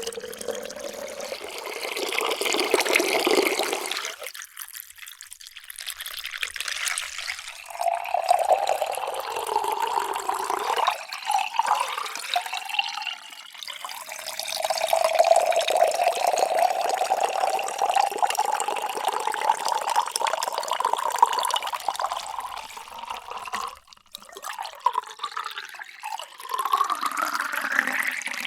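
Water poured into a drinking vessel in several separate pours, with short breaks between them. During each pour the ringing tone climbs as the vessel fills, most steeply in the last pour near the end.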